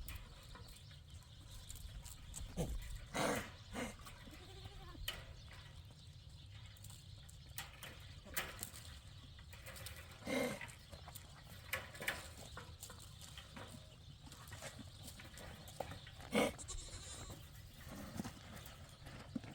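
Livestock bleating: three separate calls about six seconds apart, with light knocks and clicks between them.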